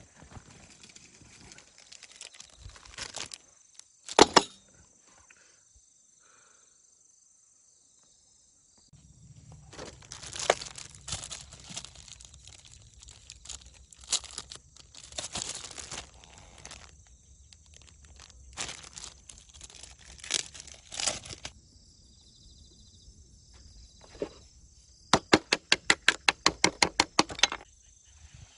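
Intermittent rustling, crinkling and tearing from hands handling material, in several separate stretches. Near the end comes a quick run of about a dozen sharp clicks.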